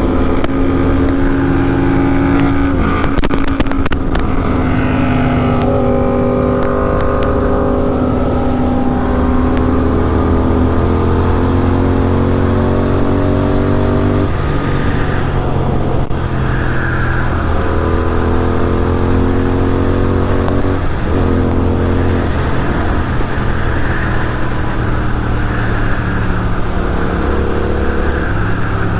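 Kawasaki Z900 inline-four with an SC Project exhaust, accelerating through the gears on the highway. The engine note climbs steadily and drops sharply at each upshift, about halfway through and again a few seconds later, over a steady rumble and wind noise.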